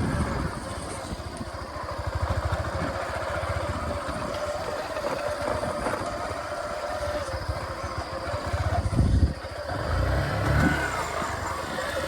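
Vehicle engine running while driving over a bumpy, potholed road, with a louder jolt about nine seconds in.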